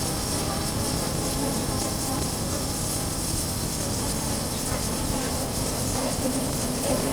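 Honda CB400X motorcycle under way: steady wind rush on the chest-mounted microphone and road noise, with the engine running underneath.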